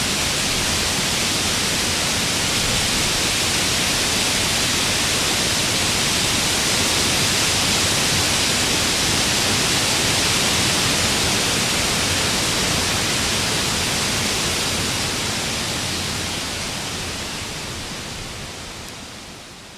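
Warm wind ambience: a steady rush of wind with no gusts or other events, fading out over the last few seconds.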